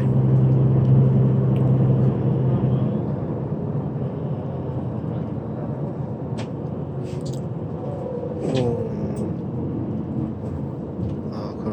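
Airport bus heard from inside the cabin: a steady engine drone and road rumble. The strong engine hum eases off after about three seconds, as if the bus is coasting or slowing.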